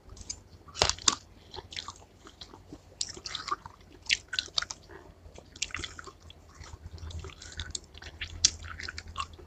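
A person chewing a mouthful of juicy watermelon chunks close to the microphone: irregular wet mouth clicks, loudest about a second in.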